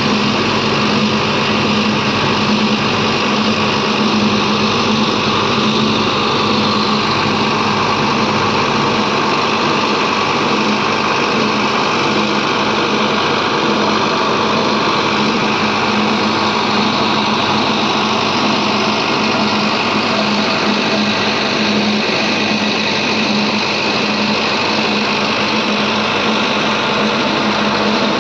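Diesel engine of heavy machinery running steadily, with a constant hum and no clear revving.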